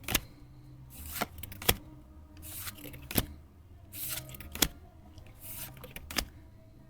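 Pokémon trading cards being flipped through one at a time. Each card slides off the stack with a soft brushing sound and lands with a sharp snap, about every one and a half seconds, five snaps in all.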